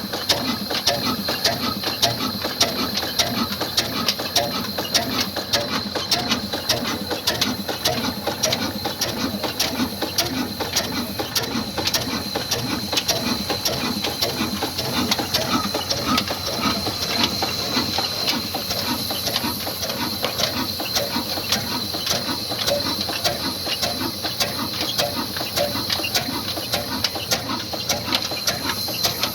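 Old black 22 hp slow-speed (300 rpm) diesel engine running steadily under load with a wood-cutting machine, an even, fast clattering rhythm with a thin steady whine above it.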